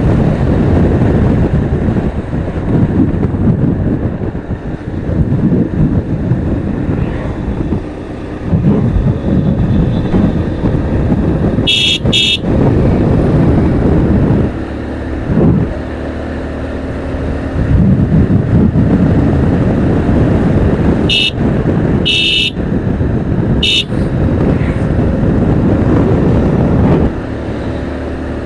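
Steady rumble of riding through road traffic on a motorcycle, with short vehicle horn toots: a quick double toot near the middle and three more toots a little later.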